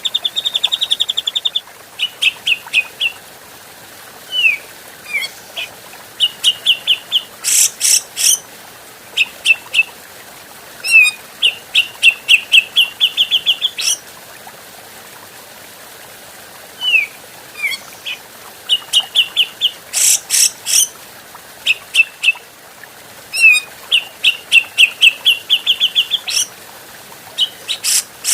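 Grey-cheeked bulbul (cucak jenggot) calling: a rapid trill that stops about a second and a half in, then quick runs of short, clear notes, a few falling slurred notes, and twice a loud harsh chatter. The same sequence of phrases repeats about every twelve seconds, as in a looped recording.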